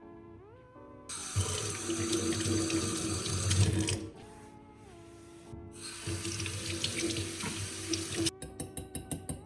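Water running from a tap into a sink, turned on for about three seconds, off, then on again for about two and a half seconds.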